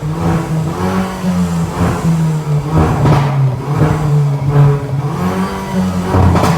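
Hyundai i30 N's turbocharged 2.0-litre four-cylinder running through an aftermarket stainless steel exhaust with active valves, its engine note wavering a little, with short noisy surges about every three seconds.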